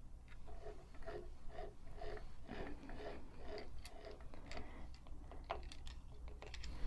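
Singer 223 sewing machine's mechanism being worked by hand while it is being oiled, giving faint rhythmic ticking and small squeaks about three times a second.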